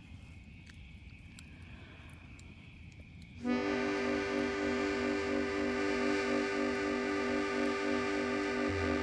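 A free-reed instrument (harmonica or accordion) falls quiet, leaving a low rumble and faint clicks. About three and a half seconds in it comes back in with a full sustained chord, its lower notes pulsing about twice a second.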